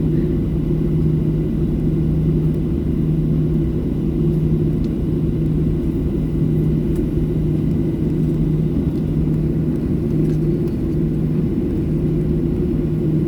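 Boeing 737 jet engines heard inside the passenger cabin as a steady rumble with a low hum that holds its pitch.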